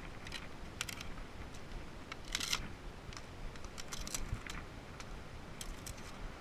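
Wood campfire crackling: irregular sharp pops and clicks, a cluster of them about two and a half seconds in, over a low rumble.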